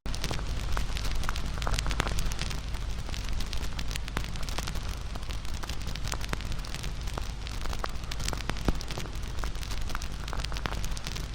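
Wood fire crackling, with many sharp pops and snaps over a steady hiss; one louder pop about three quarters of the way through.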